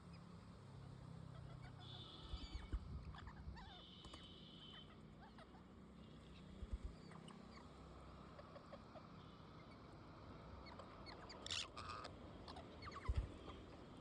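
Pet parrots making faint, scattered chirps and squeaks, with a few low knocks in between.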